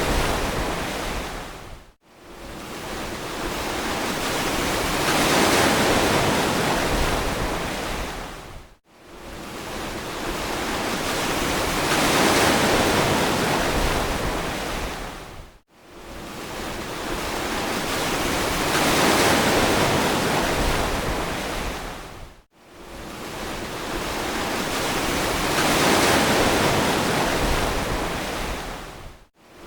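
Ocean waves washing onto a beach, a steady rushing surf. Each wave swells over a few seconds and then fades, dropping to a brief near-silent gap about every seven seconds, four times.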